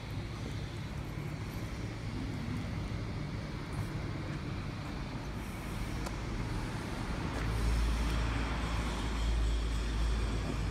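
Kubota Midy TMA20 2.2 hp engine tiller running steadily, its small engine louder and deeper from about two-thirds of the way in.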